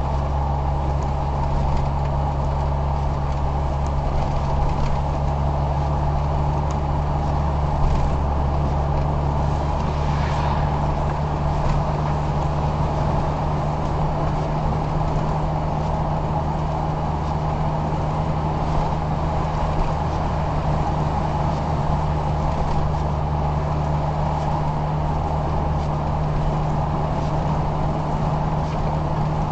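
A car driving, with a steady engine hum and road noise.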